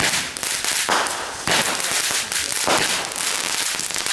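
Fireworks going off: a run of sharp reports, roughly one every half second to a second, each followed by a fading hiss.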